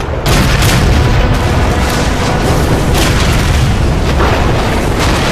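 Cannon fire and explosions from a naval battle: a dense run of booming blasts, with sharper shots standing out about once a second.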